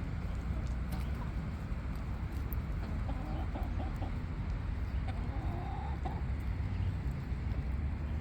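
Chickens clucking: a few short clucks about three seconds in and a longer call a couple of seconds later, over a steady low rumble.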